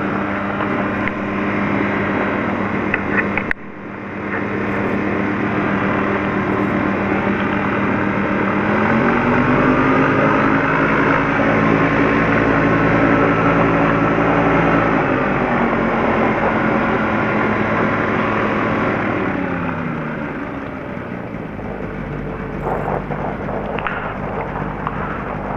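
Light aircraft's piston engine running steadily. About nine seconds in it speeds up, holds the higher speed for several seconds, and eases back down around twenty seconds. The sound briefly cuts out about three and a half seconds in.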